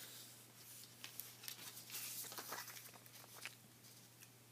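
Faint rustling and light crinkling of a square sheet of paper being folded in half and creased by hand, a few soft swishes and taps, busiest about two seconds in.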